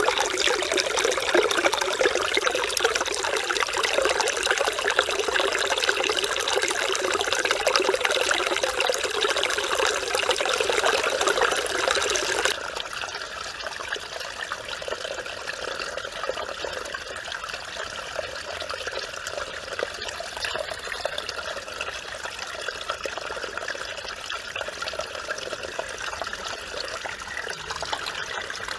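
Mountain stream water flowing and trickling over rocks, a steady rushing babble. About twelve seconds in it changes suddenly to a quieter, softer flow.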